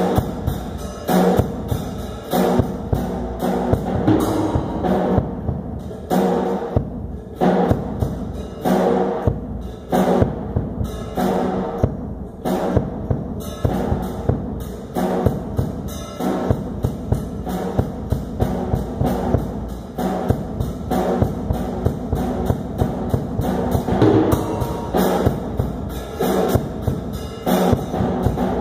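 Drum kit playing a steady rhythm, with many strikes each second.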